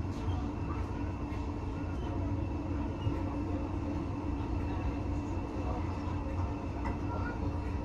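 Steady low rumble and hum of a heritage railway passenger carriage, heard from inside the coach, with a few faint clicks.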